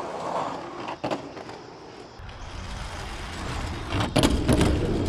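Die-cast toy monster trucks rolling down a race track: a rolling rumble that builds over the second half, with a click about a second in and several clacks near the end.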